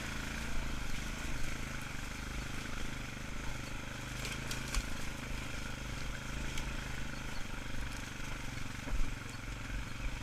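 ATV engine running steadily at a slow trail pace, with a few short clicks.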